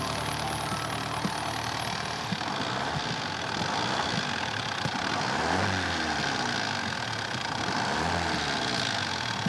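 Motor vehicle engine running under a steady hiss, swelling briefly about five and a half seconds in and again near eight seconds.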